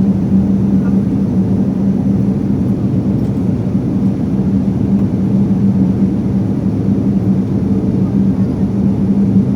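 Steady in-flight airliner cabin noise: a constant low rumble of engines and airflow with a steady hum underneath.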